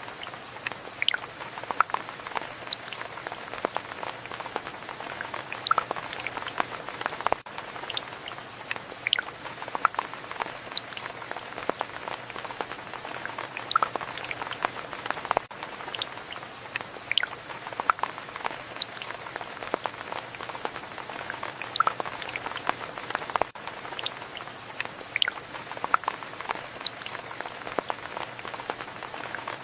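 Rain pattering, with frequent distinct drops striking close by over a steady wash. The same stretch repeats about every eight seconds.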